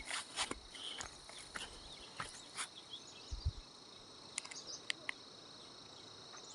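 Insects such as crickets chirring in a steady high-pitched drone, with scattered soft clicks and taps.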